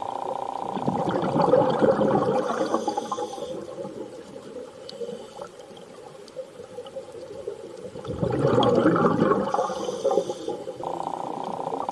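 Underwater water sound: two slow swells of rushing, bubbling water, a few seconds each, with a steady hum at the start and again near the end.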